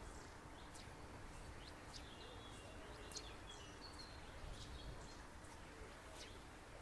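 Faint birdsong: scattered short high chirps and brief whistled notes from small birds over a low steady background rumble.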